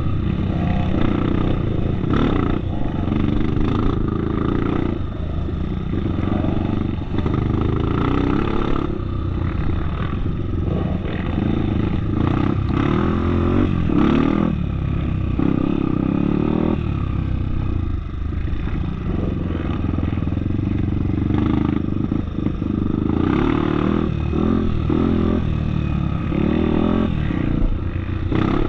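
Off-road trail motorcycle engine running as the bike is ridden, its engine speed rising and falling over and over.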